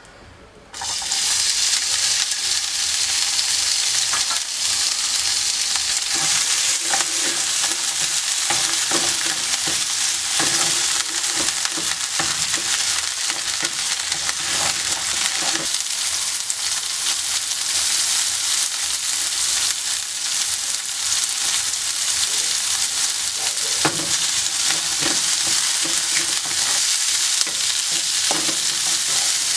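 Food sizzling steadily in hot oil in a pan, with a utensil clicking and scraping as it is stirred. The sizzle starts suddenly about a second in.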